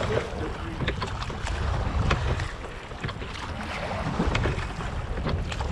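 Wooden Cornish pilot gig being rowed at sea: wind buffeting the microphone over water noise, with short knocks and splashes from the oars every second or so.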